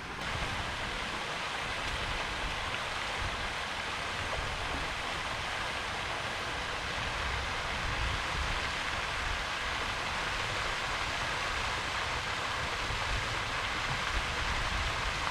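Steady rushing and splashing of a pond fountain's spray falling back onto the water, with an unsteady low rumble underneath.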